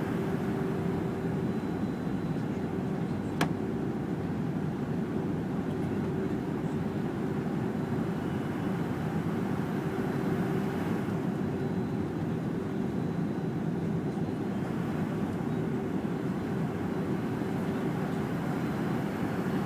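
Steady cabin noise inside a Fokker 100 in flight: its rear-mounted Rolls-Royce Tay jet engines and the rush of air, with a steady hum running through it. A single sharp click a little over three seconds in.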